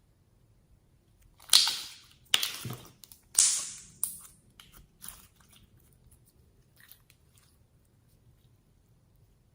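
Store-bought slime being squeezed and pressed by hand, giving a run of loud crackling pops about a second apart, then softer ones.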